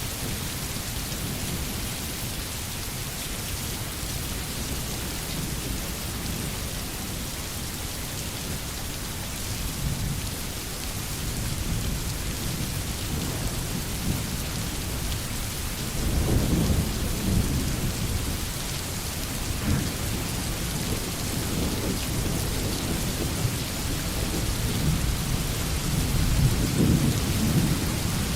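Rain drumming steadily on a tin roof, with thunder rumbling low underneath; the rumble swells about halfway through and again near the end.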